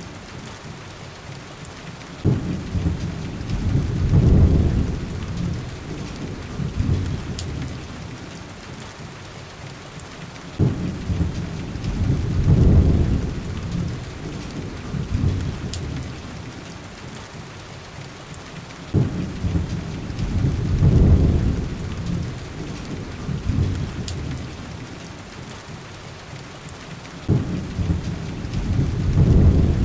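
Heavy rain on a window glass with deep rolls of thunder, four in all about eight seconds apart, each starting suddenly and swelling before fading. A few faint crackles from a wood fire show up over the rain.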